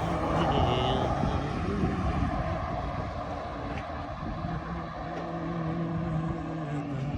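Heavy loaded truck running steadily, a continuous engine and road drone with a low steady tone settling in about halfway through.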